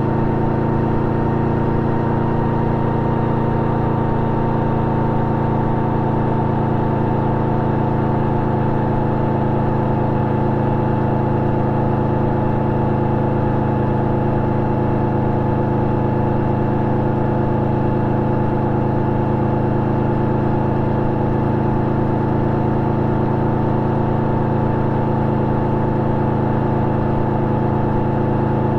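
Yamaha VMAX 1700's V4 engine running through an Akrapovic exhaust with a dB-killer fitted, holding a steady engine note while cruising at an even speed.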